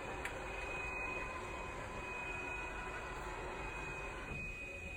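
Steady rushing background noise with a faint, steady high-pitched whine through it. The middle of the noise drops away about four seconds in.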